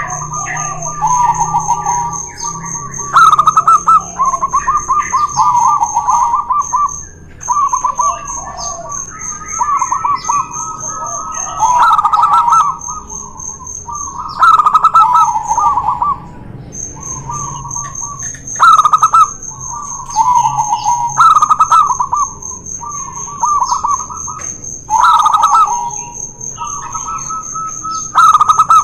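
Zebra doves (perkutut) cooing in long runs of quick, stuttering coos, phrase after phrase every few seconds, with two birds answering and overlapping each other.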